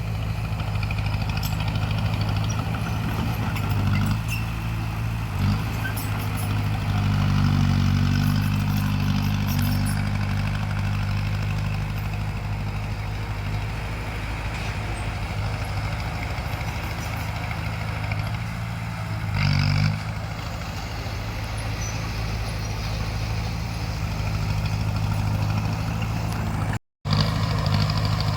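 Heavy diesel engine of a crawler bulldozer running steadily, pulling harder for a few seconds near the start, with a short louder burst about two-thirds of the way through and a brief dropout near the end.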